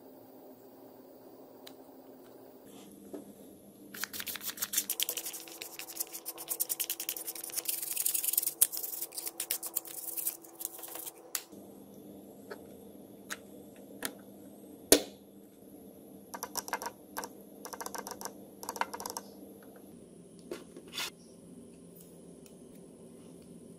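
Small sharp clicks and taps from hands working on a Nokia 105 phone: a dense, rapid run for several seconds, then scattered clicks with one louder click in the middle.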